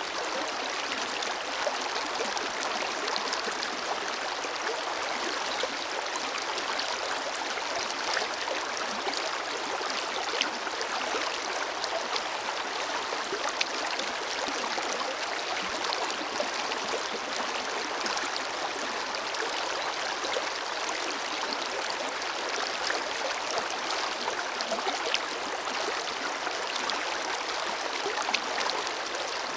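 Forest river flowing over rocks: a steady rushing of water, with small splashes and gurgles breaking through.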